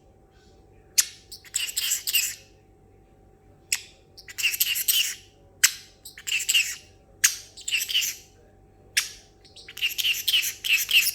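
Parrotlet chirping in repeated bursts of quick, buzzy chatter, with single sharp clicks in the gaps between bursts.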